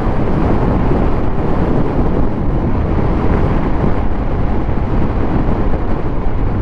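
Triumph Speed Triple 1200 RS three-cylinder motorcycle underway at a steady pace: engine and exhaust running under a constant rush of wind noise.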